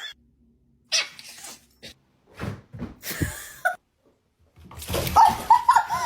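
A dog vocalising: several short, separate bursts of sound, then near the end a quick run of short, high-pitched yelps.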